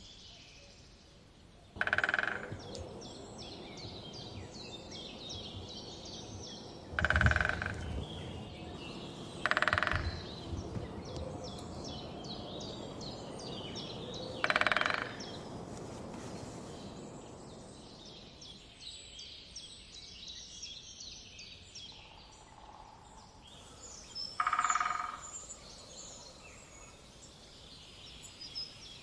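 Woodland bird ambience: many small birds chirping and twittering throughout, broken by five loud, short calls or bursts, each about half a second long and several seconds apart.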